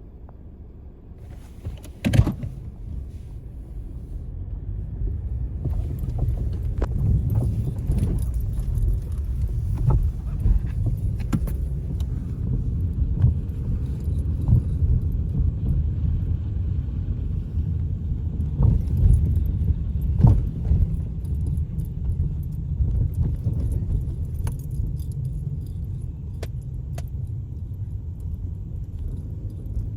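Car driving along, a steady low road and engine rumble that builds over the first few seconds, with scattered clicks and rattles throughout and one sharp knock about two seconds in.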